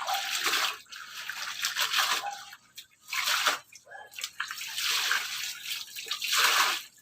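Washing machine tub sloshing water in repeated surges as the agitator swishes the load back and forth.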